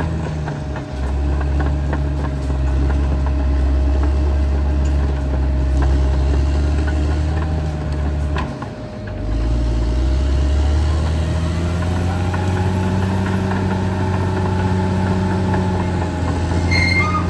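Caterpillar D6R XL bulldozer's diesel engine running steadily under load. About halfway through it briefly drops away, then comes back up with its pitch rising.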